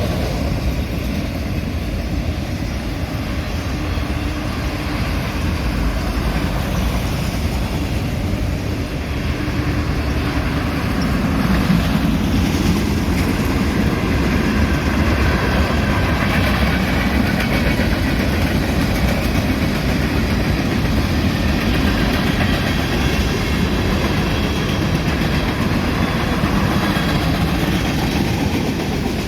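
A mixed freight train of auto racks and grain cars rolls past close by, a steady rumble with wheels clattering over the rails. It grows louder about a third of the way in.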